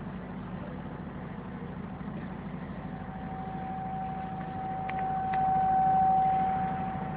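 Steady low hum in the pause between recited verses, with a single thin steady tone that comes in about three seconds in and grows louder, and two faint clicks near the middle.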